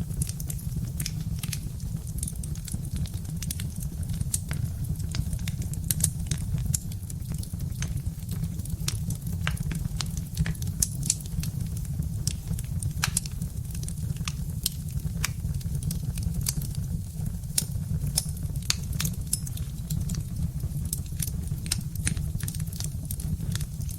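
Birch-wood fire crackling: a steady scatter of sharp pops and snaps, several a second, over a low steady rumble.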